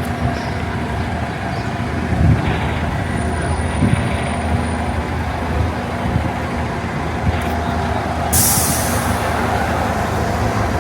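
Street traffic with a heavy vehicle such as a bus or truck running, its engine a steady low rumble. A short hiss of air brakes comes about eight seconds in.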